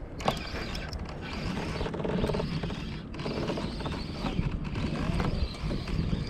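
Spinning reel being cranked to reel in a hooked small fish, giving a mechanical whirring and creaking.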